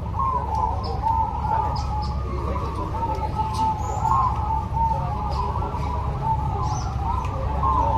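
Many zebra doves (perkutut) cooing at once, their rolling calls overlapping without a break, with short high chirps from small birds scattered over them and a steady low rumble underneath.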